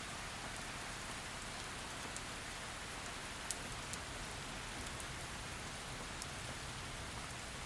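Steady heavy rain falling in an even hiss, with occasional sharp drip clicks of individual drops hitting a surface, the loudest about three and a half seconds in.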